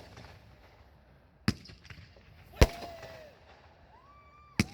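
Fireworks bursting: three sharp bangs spread across a few seconds, each trailing off briefly.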